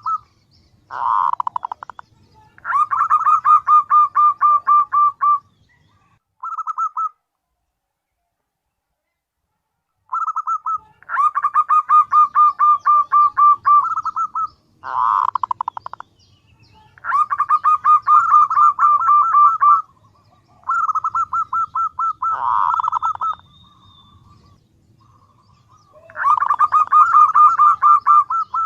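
Female zebra dove calling: repeated bouts of rapid cooing notes, about eight a second and lasting a few seconds each, with three short harsh rasping bursts between them. This is the female's call to attract males.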